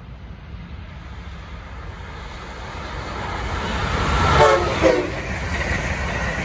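First-generation Amtrak Acela Express electric trainset approaching at speed, its rumble growing steadily louder. It sounds two short horn blasts about four seconds in, then runs past close by with steady wheel and air noise.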